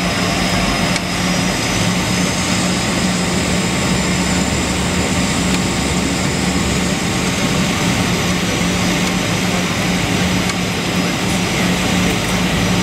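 Cessna 208 Grand Caravan's single PT6A turboprop engine running, heard from inside the cabin as a loud, steady drone with a constant low hum.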